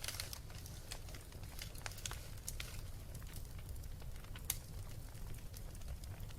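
Wood fire burning with irregular crackles and pops over a low steady rumble, with one sharper pop about four and a half seconds in.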